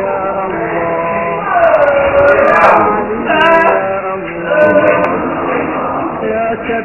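Men's voices chanting an Arabic Islamic supplication in long, drawn-out melodic phrases, with a wide sliding note about two seconds in.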